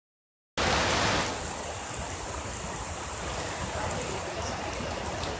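Heavy rain pouring onto floodwater and dense foliage: a steady, even hiss of rain. It starts abruptly about half a second in, slightly louder for its first half second, then holds steady.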